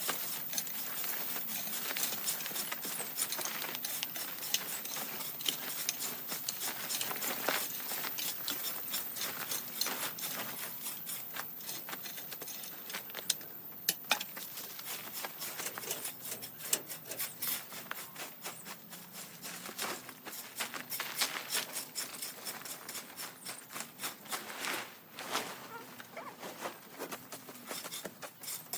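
Quick, repeated scraping and clicking strokes of hand work, busy at first and turning into sparser, separate strokes near the end.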